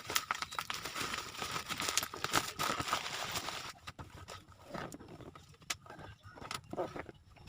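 Packaging being handled: crinkling and rustling with many small clicks, dense for the first three and a half seconds, then sparser handling noises.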